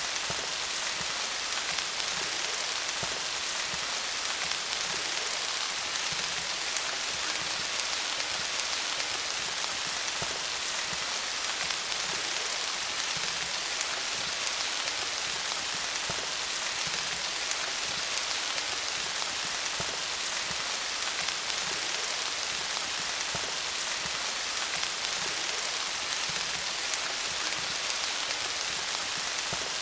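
Steady rain falling on leaves: a dense, even patter of drops with many fine ticks, strongest in the high hiss, with no change in intensity.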